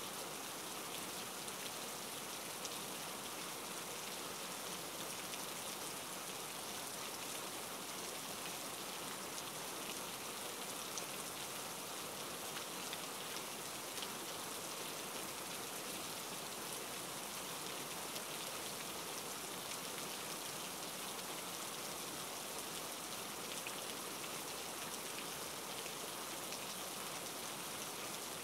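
Steady hiss of rain, with faint scattered ticks of drops.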